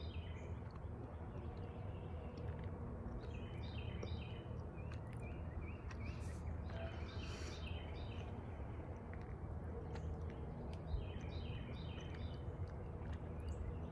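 Quiet outdoor ambience: a steady low rumble, with a songbird singing short runs of repeated chirps a few times.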